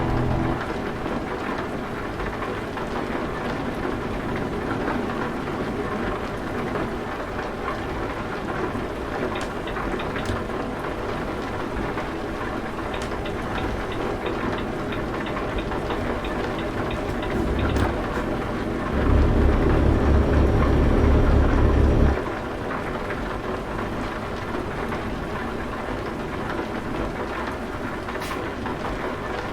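Truck engine running with a steady drone. A louder, low, pulsing rumble swells for about three seconds a little past the middle, then drops back.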